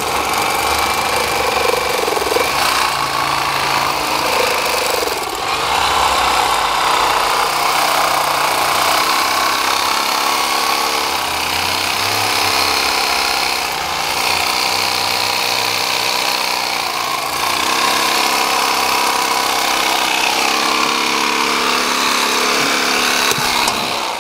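A motorized tool running continuously under varying load, its pitch shifting, starting abruptly and cutting off at the end.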